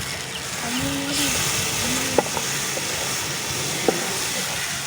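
Onion-tomato masala with ground spices sizzling steadily in a pan over a wood fire, getting brighter and hissier about a second in. Two short sharp clicks come later, as the stirring spoon strikes the pan.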